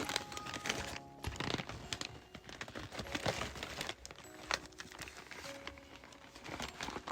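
Packaging crinkling and rustling in irregular bursts as items are handled and taken out of a parcel, with soft background music playing.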